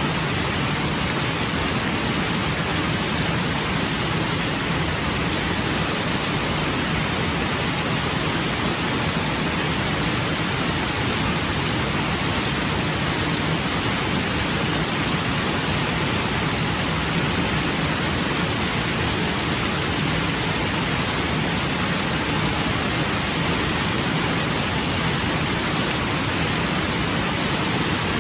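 Steady heavy rain falling and pattering on surfaces, a continuous even hiss with no breaks.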